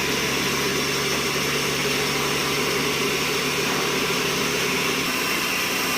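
Sawmill machinery running steadily: a loud, even mechanical noise with a low hum that drops away about five seconds in.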